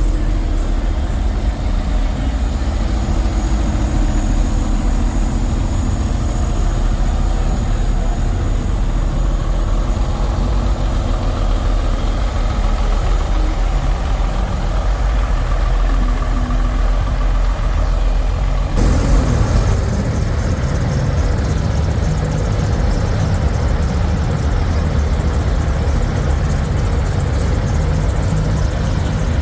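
Diesel semi-truck engines idling with a steady low rumble. The sound changes abruptly about two-thirds of the way through.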